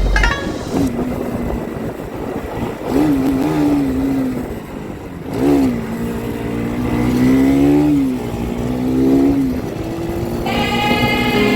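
Motorcycle engine running while riding, its pitch rising and falling several times with the throttle. Background music comes back in near the end.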